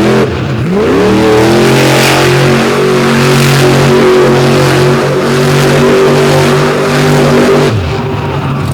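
Monster truck engine revving up hard and held at high revs for several seconds, then letting off near the end, as the truck spins donuts in the dirt.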